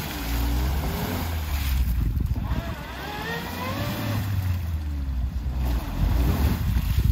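New Suzuki Jimny's engine revving up and down under load while its tyres spin and churn through deep mud, the car struggling in the rut.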